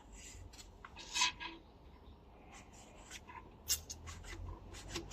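Faint, intermittent scraping and rubbing with a few small clicks, from hands working candle paraffin and shavings for fire-starter briquettes.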